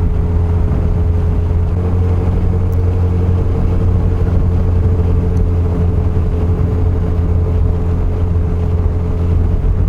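Yamaha FJR1300's inline-four engine running steadily while riding, with a steady hum that edges up slightly in pitch about two seconds in, over road and wind noise.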